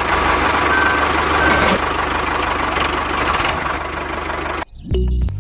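Mini tractor's engine running at a rapid, knocking idle, with two short high beeps about a second in. The engine sound cuts off abruptly near the end, and tinkling music comes in.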